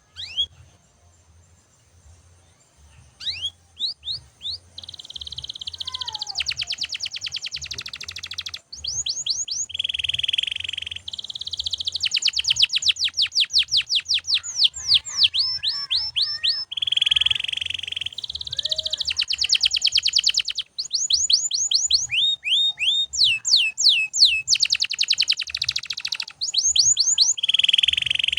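Domestic canary singing: a single chirp, a few seconds of quiet, then from about three seconds in a continuous loud song of fast trills and rolls, made of rapid runs of sweeping notes alternating with steadier buzzy phrases.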